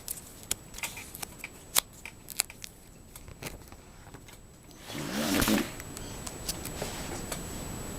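Swap card album pages and cards being handled: a run of light clicks and crinkles, then a louder rustle about five seconds in as a page is turned.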